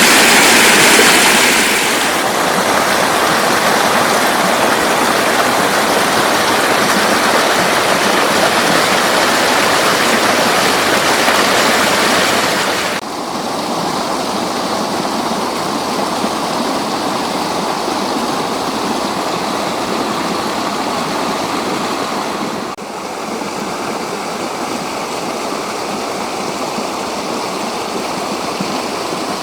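Floodwater rushing steadily across a road, a continuous loud wash of water. It drops abruptly in level about 13 s in and again about 23 s in.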